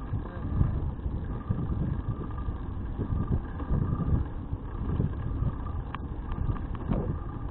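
Wind buffeting an action camera's microphone while riding a bicycle, heard as a gusty low rumble. A few faint clicks come near the end.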